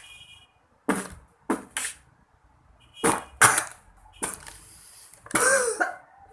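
Vocal beatboxing: a run of short, sharp mouth-percussion hits, about six in the first four seconds, then a brief voiced sound with a bending pitch near the end.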